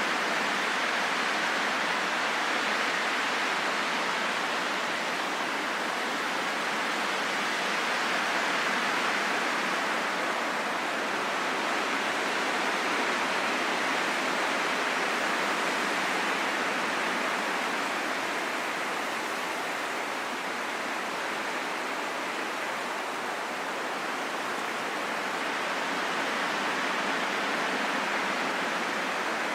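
Steady rain falling: an even hiss with no separate drops or other sounds standing out.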